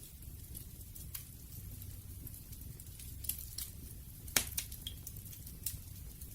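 Campfire crackling: scattered sharp pops and snaps from burning wood over a low rumble of the fire, with one louder pop about four seconds in.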